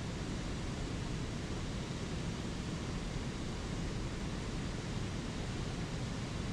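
Flowing spring creek water, a steady even rush with no breaks.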